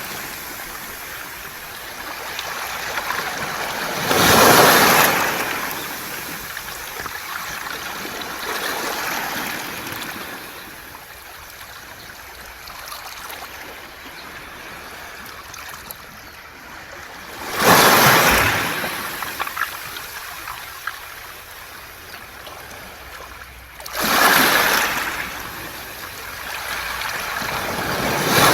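Waves washing up a beach of smooth round pebbles (mongdol), breaking in four loud surges with a hiss and clatter of stones as the water runs back between them.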